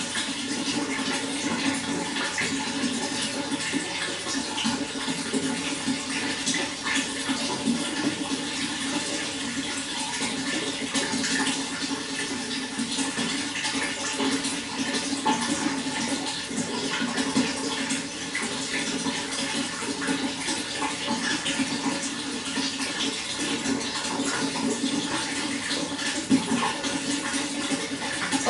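Running water flowing and splashing steadily, a continuous rushing with small, quick splashes throughout.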